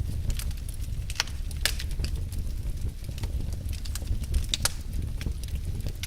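Wood fire burning in a fireplace: logs crackling with frequent irregular sharp pops over a steady low rumble.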